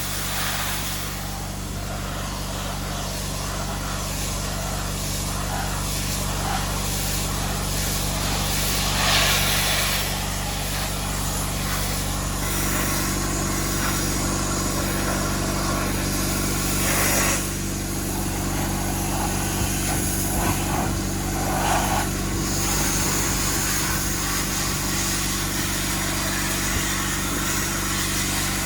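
An engine running steadily. A second steady tone joins about twelve seconds in, and short bursts of hissing air come and go.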